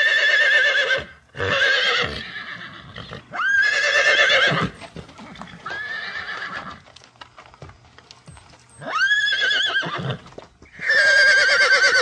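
A horse whinnying again and again: about six high, quavering neighs, each about a second long, several sweeping up in pitch at the start.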